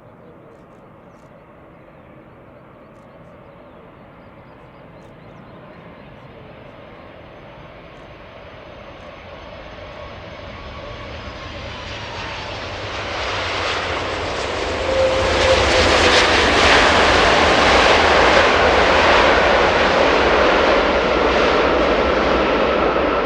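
Airbus A330-300 twin-engine jet airliner flying past, its engine noise growing steadily from faint to loud and staying loud over the last third, with a whine gliding through the rushing jet sound.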